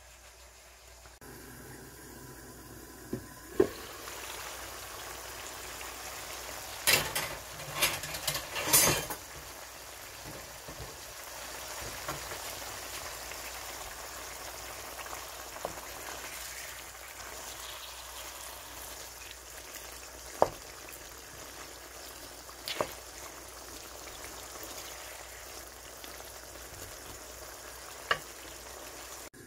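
Chicken pieces frying in oil in a pan, a steady sizzle. A wooden spoon stirs them and knocks sharply against the pan now and then, with a quick run of knocks about seven to nine seconds in.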